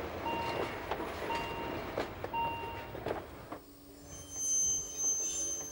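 Metre-gauge train of vintage carriages rolling past, with a few sharp wheel clicks over rail joints, while a warning beep sounds about once a second. About three and a half seconds in the rolling noise stops, leaving quieter ambience with faint high tones.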